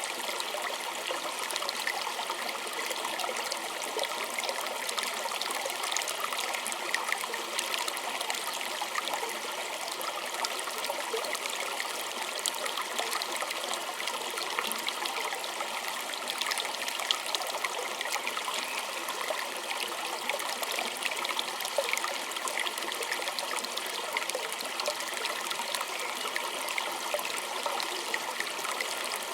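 A small stream trickling and splashing over stones, steady, with many small bright droplet splashes.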